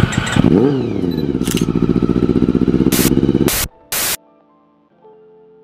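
Honda CBR400RR (NC23) inline-four motorcycle engine blipped once, its pitch jumping up and dropping back, then running steadily with a fast pulsing idle. After about three and a half seconds it is cut off by a few loud, short bursts of static-like noise, followed by faint held musical notes.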